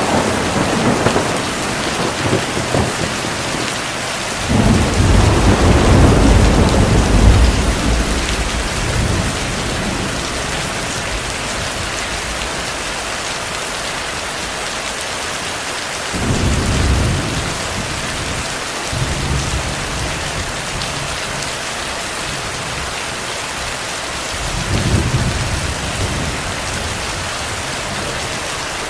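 Steady heavy rain with thunder: a sharp crack right at the start that rumbles on briefly, a long, loud rumble a few seconds later, and two softer rumbles in the second half.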